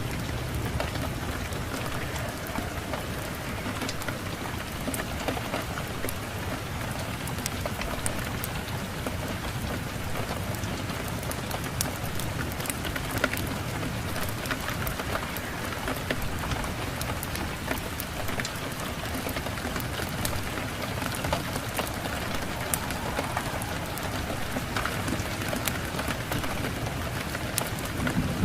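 Steady rain with many small sharp drop ticks scattered through it.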